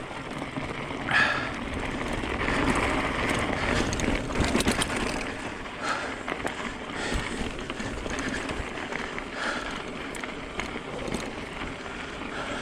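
Mountain e-bike riding down a rough dirt trail: tyres rolling over wet gravel and rock, with steady rushing noise and frequent small clicks and clatters from the bike.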